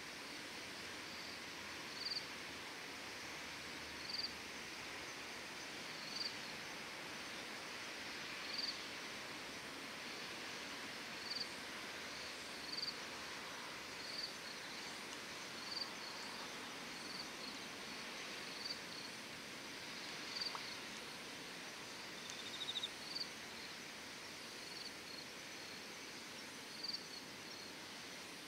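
An insect chirping, one short high chirp about every one and a half to two seconds, over a steady hiss.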